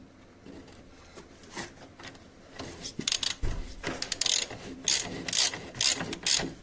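Socket ratchet wrench clicking in short repeated strokes as bolts are tightened during reassembly of the steering rack and subframe. The ratcheting starts about two and a half seconds in and goes on in bursts to the end.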